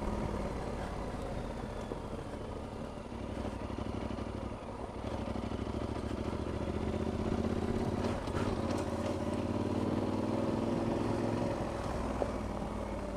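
Adventure motorcycle's engine running while being ridden off-road, its pitch rising gradually from about halfway through.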